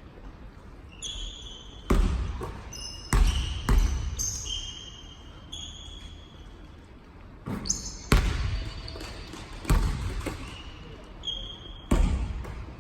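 Basketball game play on an indoor court. A basketball thumps on the floor at irregular intervals, mixed with many short, high squeaks of sneakers on the court.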